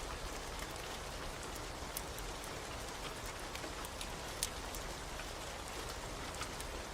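Steady rain with scattered sharp pops and crackles of a burning wood fire, one louder pop about four and a half seconds in.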